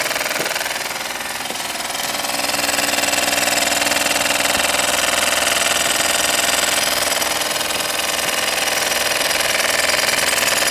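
Small homemade steam engine running steadily with a fast, even beat.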